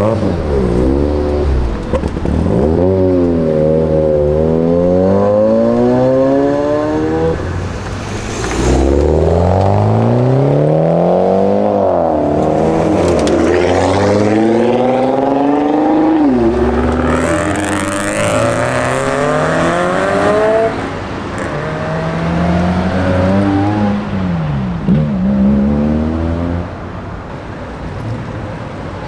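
Modified car engines revving hard again and again, the exhaust note climbing and dropping in long sweeps, then a few shorter quick blips near the end.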